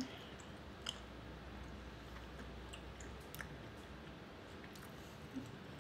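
Faint chewing of a chewy granola-style nut bar, with a few soft, scattered mouth clicks.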